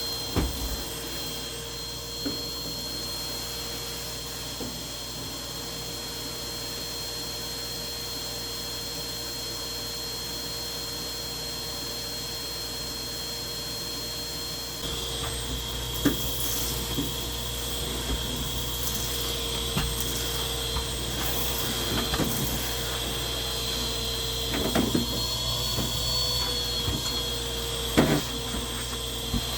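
Vacuum cleaner running steadily. About halfway through its motor note shifts lower and it gets louder, with scattered knocks and clicks after that.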